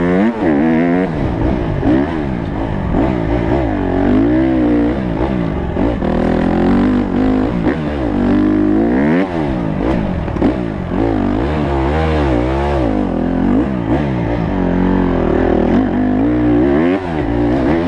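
Honda CRF150 motocross bike's four-stroke single-cylinder engine, ridden hard: the revs climb and drop back again and again, about every one to two seconds, through the throttle and gear changes. It is heard close up through a GoPro camera riding along.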